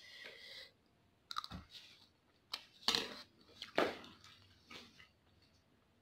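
A person chewing a mouthful of Samyang spicy instant noodles, close up: a series of short chewing sounds about a second apart.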